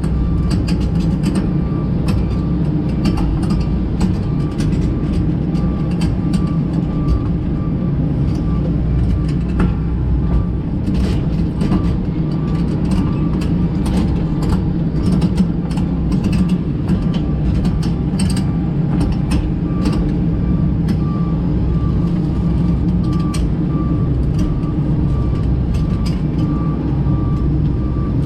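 A heavy diesel engine running steadily, with a faint short beep repeating over and over and scattered clicks and rattles.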